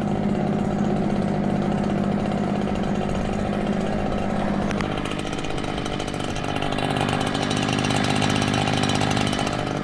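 Gas leaf blower running steadily, blowing snow. Its small engine hum and air rush ease a little about halfway through, then pick up again.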